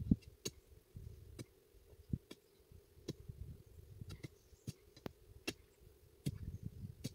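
Faint, irregular sharp clicks and knocks, roughly one or two a second, with a few dull low thuds near the start and near the end, over a faint steady hum.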